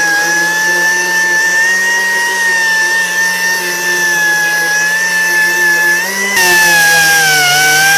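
A power tool running with a steady high whine that wavers slightly in pitch. About six seconds in the sound cuts abruptly to a louder, harsher whine that dips briefly in pitch as if under load.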